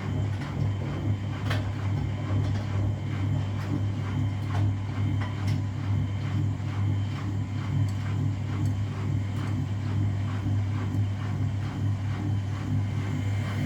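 Washing machines running mid-programme: a steady motor hum with a regular light knocking, about three a second.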